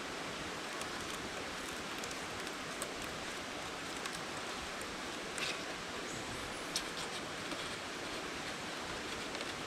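Steady outdoor background hiss with a few faint, light clicks scattered through it.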